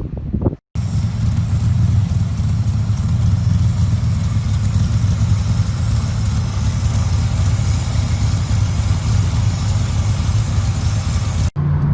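Shelby Cobra 427's big-block V8 running steadily at a low, even pitch. Brief revving is heard in the first half-second before an abrupt cut, and the sound cuts off again near the end.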